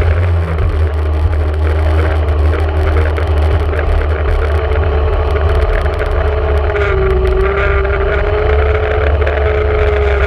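Yamaha Wave Raider personal watercraft's two-stroke engine running steadily, its pitch wavering slightly up and down.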